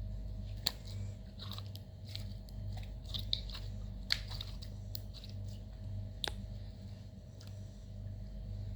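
Slime being squished and mixed by hand: scattered sticky clicks and crackles, a few sharper snaps among them, over a steady low hum.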